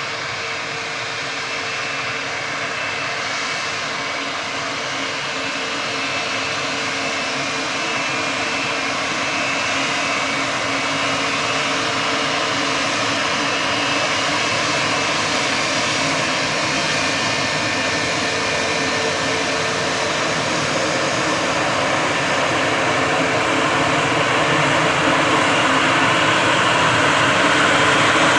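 Airbus A220-300 turbofan jet engines (Pratt & Whitney PW1500G) running with a steady whine, slowly growing louder as the aircraft draws nearer.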